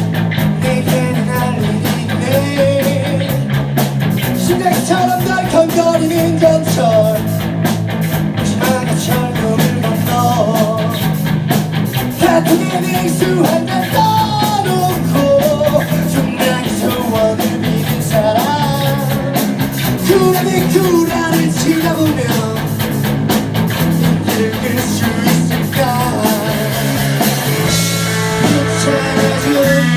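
A rock band playing live: electric guitars over a bass line that steps from note to note, with drums and a voice singing.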